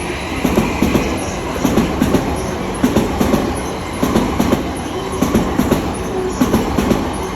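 Train running on rails: a steady low rumble with a quick, uneven run of wheel clicks over the track.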